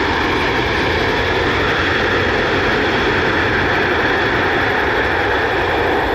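Jet airliner's engines running loud and steady as the aircraft passes.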